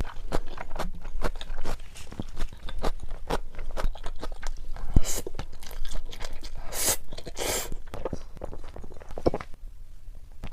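Close-miked eating: crunchy bites and chewing with many sharp wet mouth clicks, and two longer noisy stretches about five and seven seconds in.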